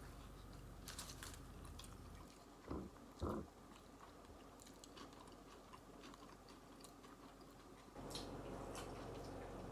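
Faint chewing and mouth sounds of someone eating a fried chicken sandwich, with small wet clicks and two short dull sounds about three seconds in.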